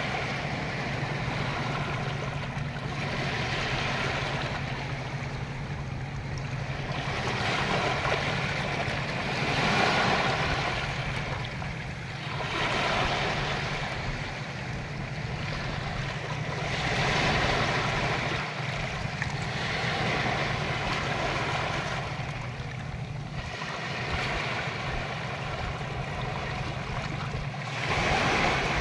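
Ocean waves washing in, the hiss swelling and fading every few seconds, over a steady low hum.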